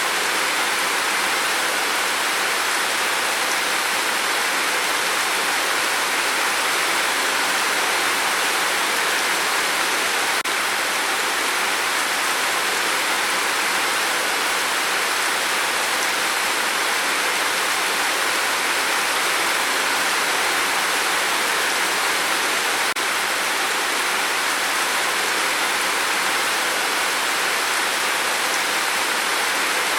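Steady heavy rain on a tin roof: a dense, even hiss with no single drops standing out.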